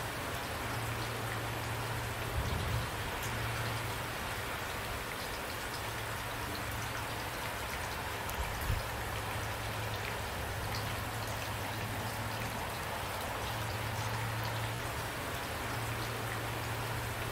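Steady rainfall, an even hiss of many drops, with a low hum that comes and goes and two louder low knocks of drops hitting, a few seconds in and near the middle.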